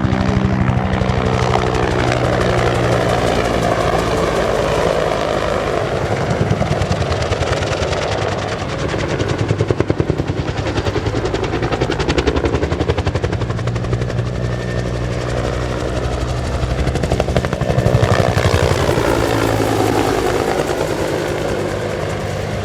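Bell AH-1S Cobra attack helicopter flying a display, its two-bladed main rotor beating in a fast steady rhythm. It grows louder about ten seconds in and again near eighteen seconds as it passes, the pitch sliding with each pass.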